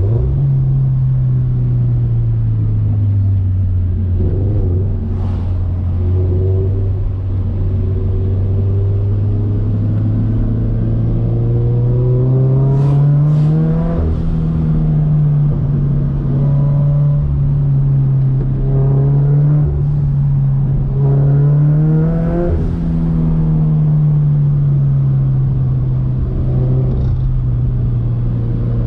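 Turbocharged Scion FR-S's 2.0-litre flat-four engine running under way, its revs climbing twice and dropping back each time.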